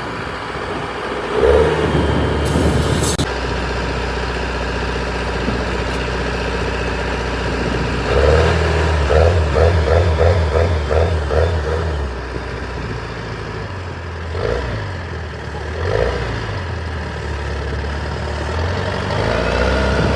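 Heavy machine's engine running, revving up about a second and a half in and again around eight seconds in, with a quick regular pulsing for a few seconds after the second rise.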